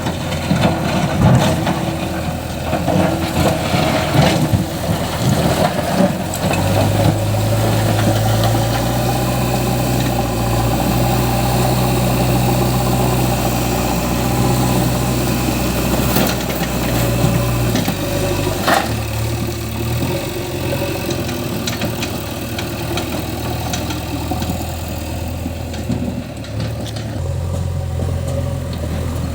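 Heavy diesel engine running, settling into a steady low note about six seconds in, its pitch dropping and coming back up a few times. A few sharp knocks come through over it.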